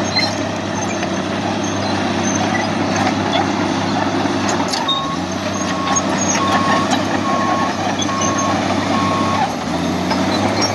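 Heavy truck's engine running steadily, and about halfway through its reversing alarm beeps six times at an even pace, then stops.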